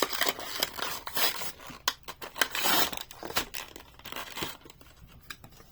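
Cardboard blister card being torn and its plastic bubble crinkled as a diecast toy car is pulled out of its packaging: irregular tearing, crackling and clicks, dying down near the end.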